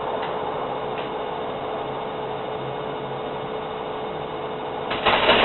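Firework powder on a plate catching light: a steady low hiss with two faint clicks, then about five seconds in a sudden loud fizzing hiss as the composition ignites and burns.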